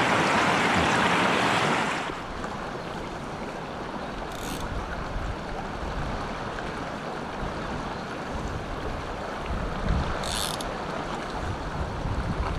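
Mountain stream water rushing steadily, louder for about the first two seconds and then dropping abruptly to a softer rush, with wind rumbling on the microphone.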